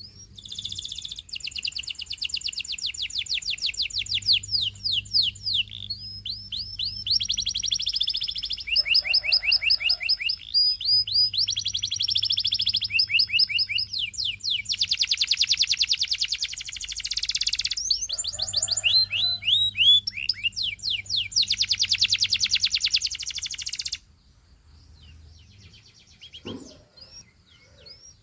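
Canary singing a long song of fast trills and rolls of repeated rising and falling notes, high-pitched, with brief breaks between phrases. The song stops about 24 s in.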